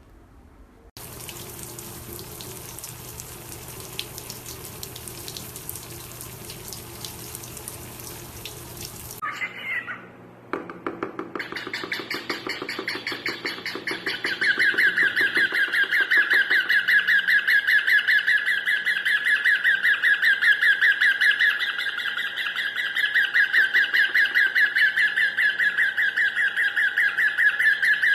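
A steady hiss for about the first eight seconds. After a short break, a small pet parrot calls in a fast, even string of repeated high chirps that gets louder a few seconds in and keeps on.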